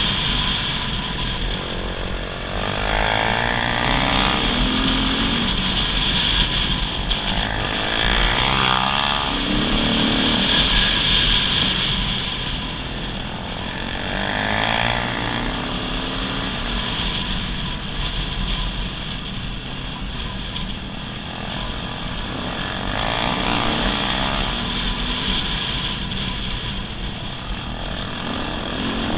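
Dirt bike engine under way on a trail, its pitch climbing and dropping again and again as the throttle is opened and eased off.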